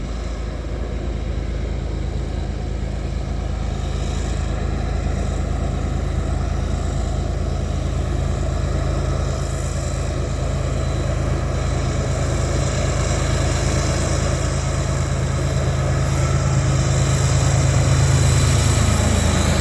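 Modern diesel locomotives working hard up a steep grade: a steady, deep engine drone that grows gradually louder.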